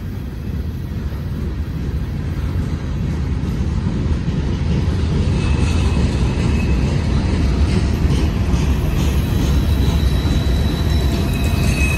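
Freight train of rotary-coupler hopper cars rolling past: a steady low rumble of steel wheels on rail, growing slightly louder. A faint high wheel squeal comes in about halfway and again near the end.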